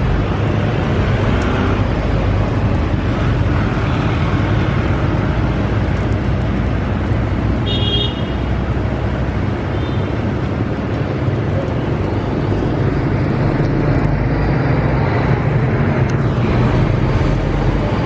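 A steady low rumble like motor traffic, with a brief high pitched tone about eight seconds in.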